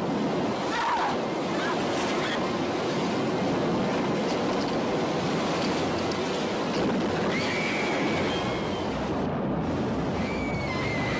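Steady loud rushing noise, like wind or jet roar in a film soundtrack, with a few short high whistling glides about eight seconds in and near the end.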